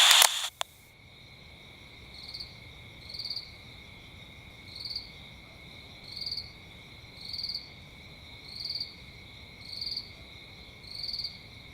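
Insects chirping: a steady high trill with a louder chirp pulsing about once a second. A single click sounds just after the start.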